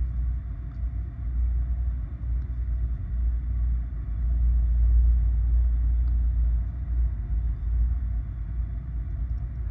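Steady low rumble of a VIA Rail passenger train running on the rails, heard from on board. It swells a little about halfway through.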